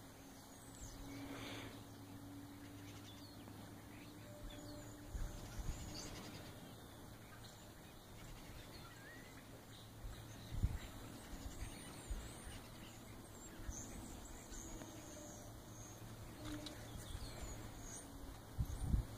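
Quiet outdoor ambience: distant birds chirping now and then over a faint steady low hum, with a few low bumps about ten seconds in and near the end.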